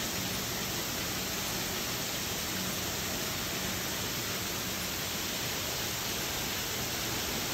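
Steady rushing noise of storm water pouring down, with no break or change.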